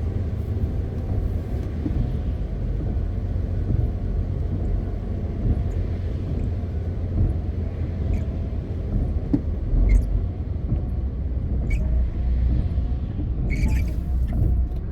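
MAN TGX 520 truck's inline-six diesel engine and tyres making a steady low rumble while driving along the road, with a few brief clicks in the second half.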